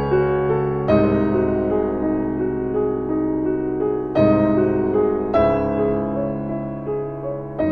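Slow piano music: sustained chords struck every second or few seconds and left to ring out and fade.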